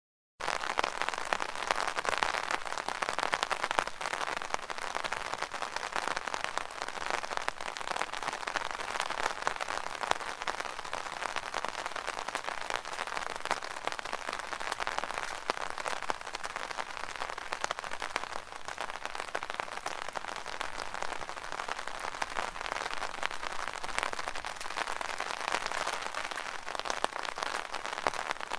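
Rain falling on an umbrella: a steady, dense patter of drops hitting the canopy.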